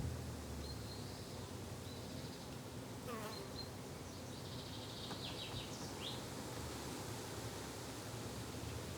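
Insects buzzing steadily in a summer garden, with a few short bird chirps over the top.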